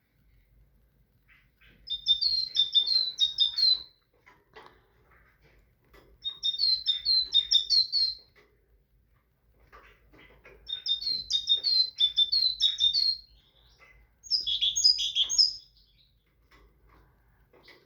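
Great tit singing: four bouts of a quickly repeated two-note phrase, each bout lasting about one to two seconds with short pauses between. The last bout is shorter and pitched a little higher.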